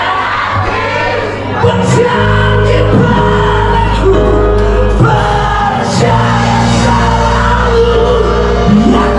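Live band music with singing; a heavy sustained bass note comes in about two seconds in and holds until near the end.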